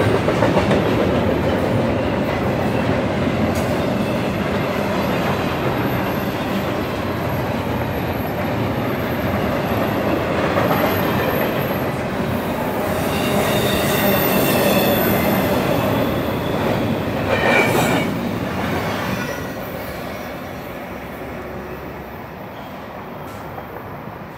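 Double-stack intermodal container train rolling past: a steady rumble and clatter of freight car wheels on the rails, with high wheel squeals from about halfway through. The sound drops away over the last few seconds as the train goes by.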